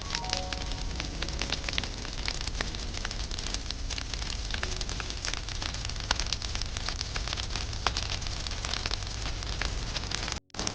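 Wood fire burning, with dense, irregular crackles and pops over a steady hiss. The sound drops out briefly near the end.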